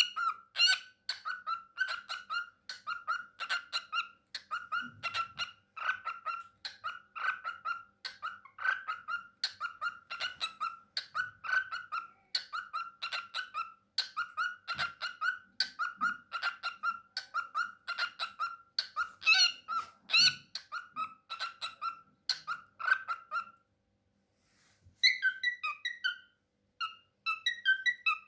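Cockatiel chattering in a long run of rapid, short, repeated notes. After a brief pause near the end come a few higher whistled chirps.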